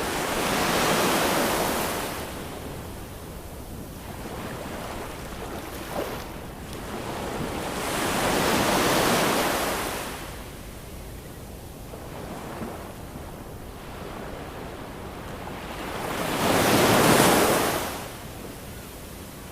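Ocean waves breaking and washing on the shore: three swells of surf about eight seconds apart, each rising and falling over two or three seconds, with a soft steady wash between them.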